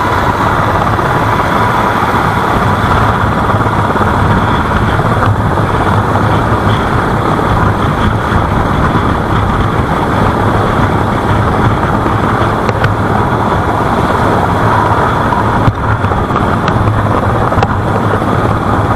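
Loud, steady engine drone with a constant low hum, unbroken throughout.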